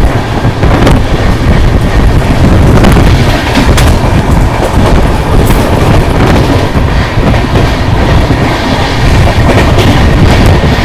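Double-decker passenger train running at speed: a loud, steady rumble of wheels on the rails with a few clicks from the track joints.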